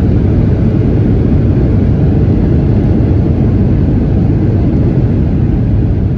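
Loud, steady low rumble of an airplane's engines.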